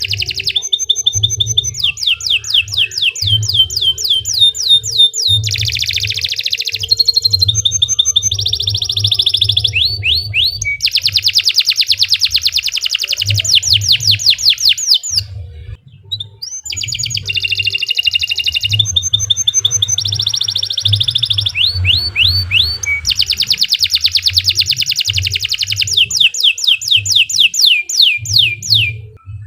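Domestic canary singing a long, continuous song of fast trills and rolls, each run a rapid string of repeated notes, with a short break about 16 seconds in. An irregular low thumping runs underneath.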